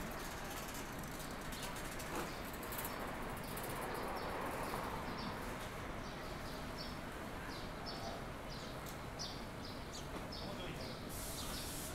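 A small bird chirping over and over, short high notes a few per second, starting about five seconds in, over a steady background hiss.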